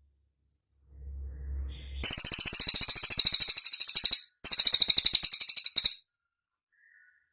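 Cililin songbird singing two fast, very high-pitched trills of rapid, even notes, the first about two seconds long and the second about one and a half, with a short break between. A faint low rumble comes just before the first trill.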